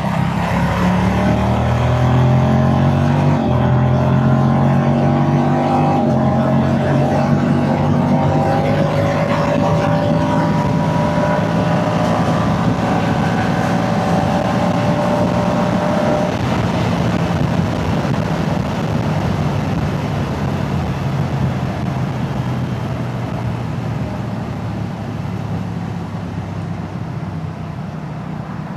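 Moto Guzzi motorcycle's V-twin engine and exhaust under hard acceleration, pitch climbing with upshifts about three and a half and six seconds in, then pulling steadily higher. About sixteen seconds in the engine note eases off and fades into steady wind and road noise as it cruises.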